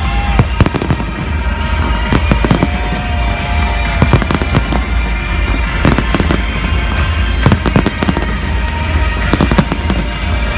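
Fireworks going off in many sharp, irregularly spaced bangs and crackles over a steady low rumble, with music playing along with the display.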